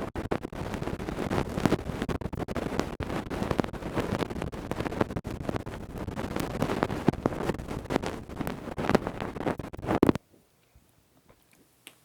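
Ear-cleaning tools scraping and rubbing close against the microphone, a dense crackly scratching that stops suddenly about ten seconds in.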